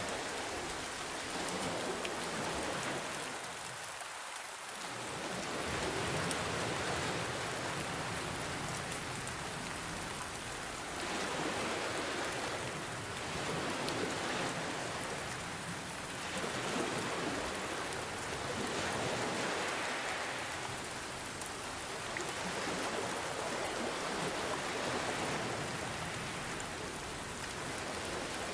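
Steady rain falling, mixed with ocean waves washing in and out, the sound swelling and easing every few seconds.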